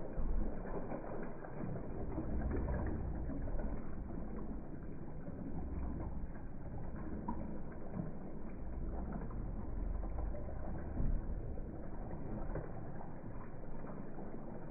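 Running water rushing and gurgling, played back slowed down in slow motion, so it comes out as a steady low rumble.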